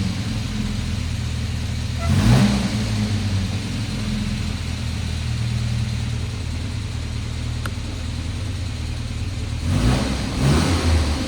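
The Volvo 122's 1.8-litre B18 four-cylinder engine is idling steadily, freshly running again on a new fuel filter after a clogged one was replaced. It is revved briefly about two seconds in and twice more near the end.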